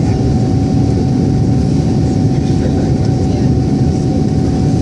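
Airbus A310 airliner cabin noise during the descent to land: a steady, loud rush of engine and airflow noise, with a faint steady tone running through it.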